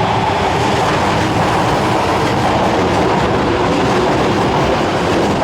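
Subway train moving along an underground station platform: steady, loud wheel-on-rail running noise with a rhythmic clickety-clack.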